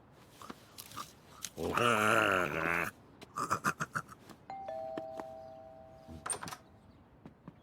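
Cartoon two-tone doorbell chime, a higher note then a lower one, ringing out about halfway through and fading. Before it, a short wavering voice-like sound, the loudest thing here, and a few light clicks.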